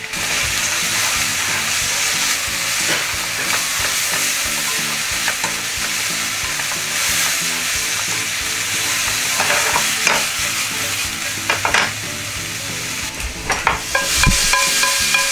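Cucumber peels sizzling steadily as they stir-fry in sesame oil and soy sauce in a frying pan, with chopsticks clicking against the pan now and then.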